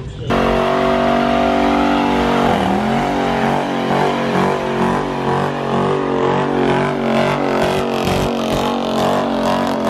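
A car engine revved and held at high revs. The pitch dips briefly about two and a half seconds in, then climbs back and holds with a slight waver.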